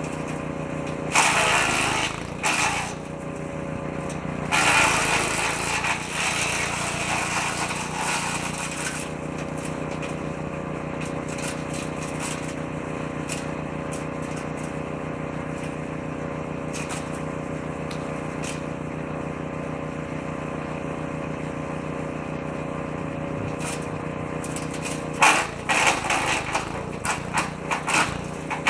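Petrol-engined woodchipper-shredder running steadily, with three loud bursts of chipping as branches are fed into the shredder drum: a short one about a second in, a longer one from about four to nine seconds, and another near the end.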